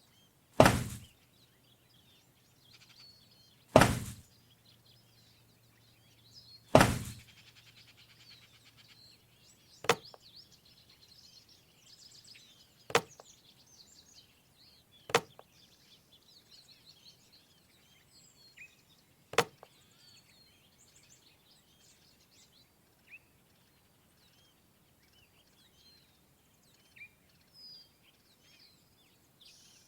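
A series of sharp knocks: three heavier ones in the first seven seconds, then four sharper, shorter clicks spaced a few seconds apart, over faint bird chirping.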